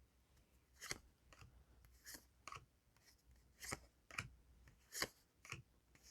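Faint, short snaps and swishes of Yu-Gi-Oh! trading cards being slid one past another while a pack is flipped through, about one to two a second.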